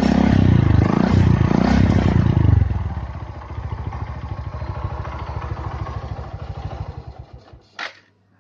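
Suzuki Shogun SP 125 motorcycle engine running through a hollowed-out (gutted) muffler: revved in three quick blips, then dropping to a rhythmic idle that dies away near the end, followed by a single short click.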